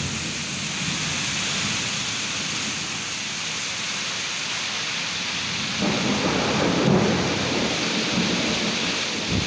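Heavy downpour pouring steadily in strong wind. About six seconds in, a louder gusting swell lasts a couple of seconds.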